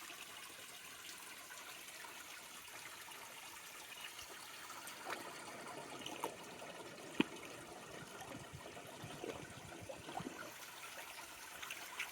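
Small creek trickling steadily, with a few faint ticks over it.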